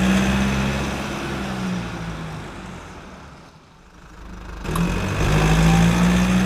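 Car engine running at a steady pitch, fading out over the first few seconds, then coming back loud after an abrupt start about two-thirds of the way in.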